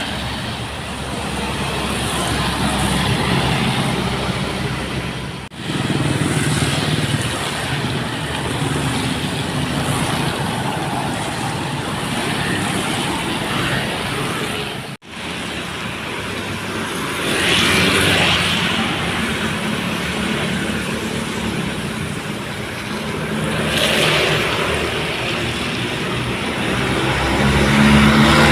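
Loaded dump trucks' diesel engines running as the trucks move along a wet road, with swells of tyre and road noise as they pass. The sound breaks off abruptly twice where the footage is cut.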